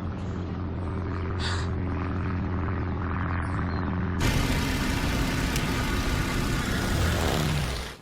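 A steady, low engine drone, like an aircraft overhead. About four seconds in, a loud rushing hiss joins it, and both cut off abruptly at the end.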